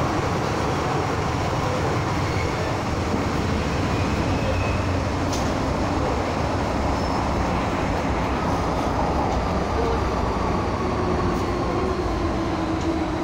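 MTR M-Train electric multiple unit running through a tunnel, with steady wheel and running noise. Over the last several seconds a motor tone falls gradually in pitch.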